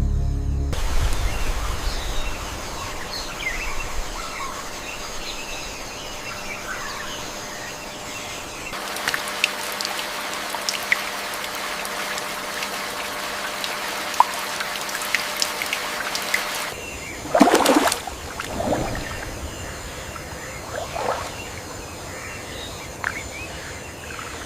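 Forest ambience: scattered bird chirps over a steady hiss of running water, changing abruptly twice as the sound bed is cut, with a brief louder sound about seventeen seconds in. A music bed fades out in the first second.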